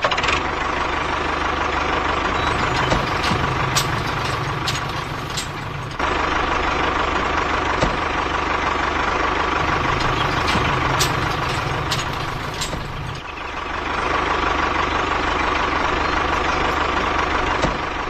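A vehicle engine running steadily in a truck-like drone, with a sudden change in the sound about six and thirteen seconds in.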